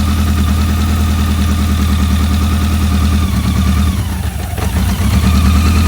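BMW K100's four-cylinder engine idling steadily. The idle sags and weakens briefly a little past halfway, then picks back up.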